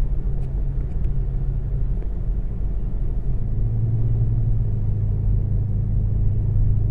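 Car engine running steadily at low revs, a deep, even rumble with a low hum that eases slightly a couple of seconds in and then firms up again.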